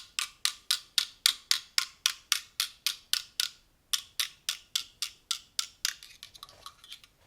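Light, sharp taps of a kitchen utensil, evenly spaced at about three and a half a second, which stop about a second before the end.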